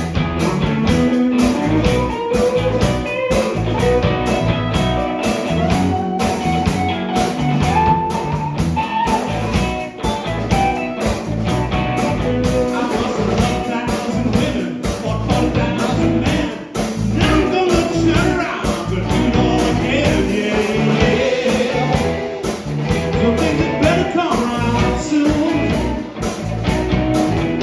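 Blues-rock band playing with electric guitar, bass and a steady drum beat, and a voice singing over it.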